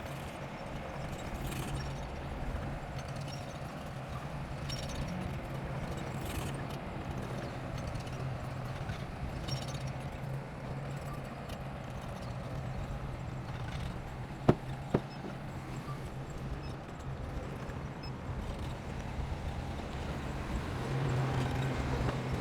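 Heavy diesel earthmoving machinery running steadily with a low engine hum and scattered metallic clanking. Two sharp knocks, half a second apart, come about two-thirds of the way through.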